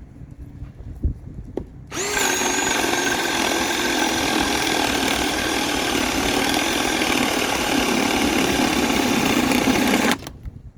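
Bauer 20-volt cordless drill spinning a spade bit through wood: the motor starts about two seconds in, dips briefly in pitch as the bit bites, runs steadily for about eight seconds, then stops suddenly.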